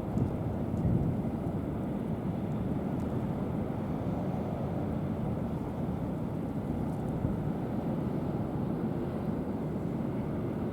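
Steady low rumble of a ship's engines, even in level throughout.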